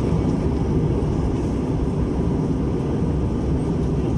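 Steady rumble of an Airbus A321-200 heard from inside the passenger cabin: engine and airflow noise, low and even, with a fainter hiss above it.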